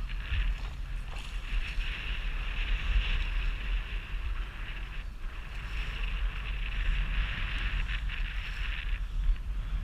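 Wind buffeting an action-camera microphone out on the water, a rough, uneven rumble over a steady hiss of water.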